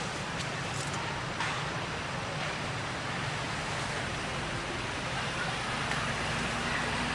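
Steady outdoor background noise, an even hiss and low rumble, with a few faint clicks in the first couple of seconds.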